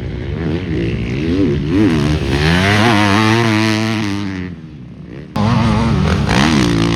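Motocross bike engines revving hard as riders go around the track, the pitch rising and falling with throttle and gear changes. The sound fades about four and a half seconds in, then cuts straight back to loud engine noise.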